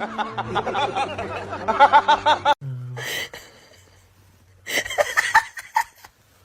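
Rapid, rhythmic laughter in quick repeated pulses that cuts off abruptly about two and a half seconds in, followed by a second short burst of laughter about five seconds in.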